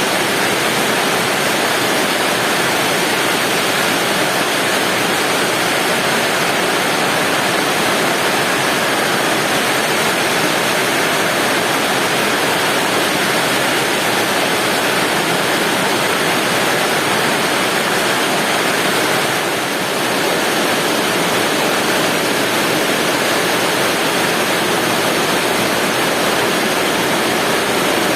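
Heavy rain pouring down in a storm, a steady dense hiss.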